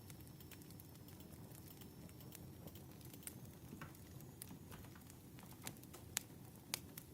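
Wood fire crackling: a soft low rumble of burning with scattered small pops and snaps, two sharper pops near the end.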